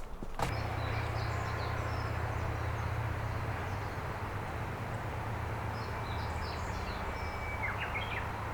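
Outdoor riverside ambience: the steady rush of flowing river water, with small birds chirping a few times high above it and a brief trill near the end. A low steady hum sits underneath.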